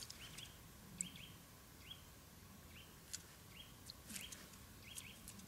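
Faint, short rising chirps of a bird calling over and over, many in pairs, about every half second, with a few sharp clicks between them.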